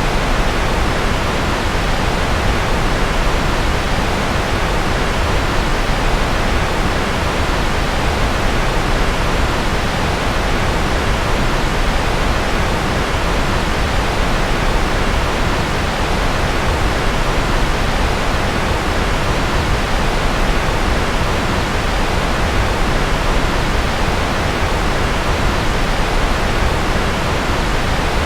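Steady, unchanging rushing noise, like pink noise, spread evenly from deep rumble to hiss and thinning at the top.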